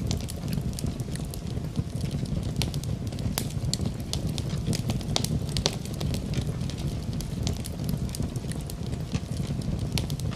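Wood fire in a fireplace crackling, with frequent sharp pops scattered irregularly over a steady low rumble.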